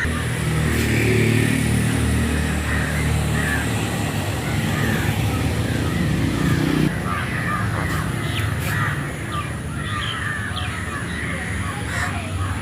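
A large flock of crows cawing, many overlapping calls at once. A steady low rumble runs underneath and cuts off about seven seconds in.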